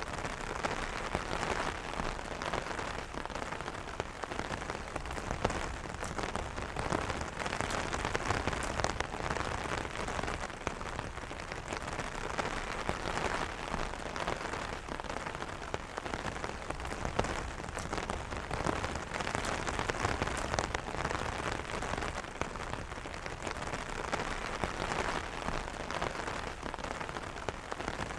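Steady rain pattering on an umbrella's fabric canopy, a dense even patter of many small drop ticks, with no thunder.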